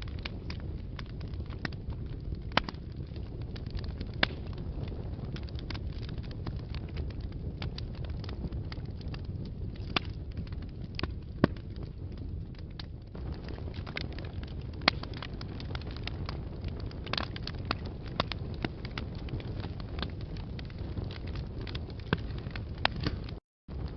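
Wood fire burning in a fireplace: a steady low rumble of flames with irregular sharp crackles and pops. The sound cuts out for a split second near the end.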